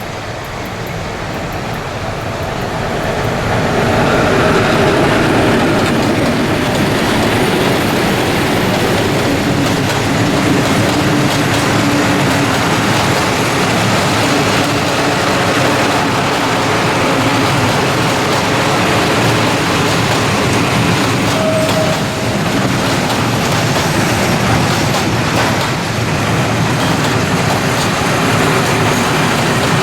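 Freight train of loaded coal wagons rolling past, its wheels clattering over the rail joints with some squealing. It grows louder over the first few seconds, then runs steadily.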